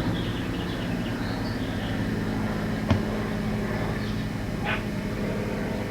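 Small birds chirping faintly over a steady low hum, with one sharp click about halfway through.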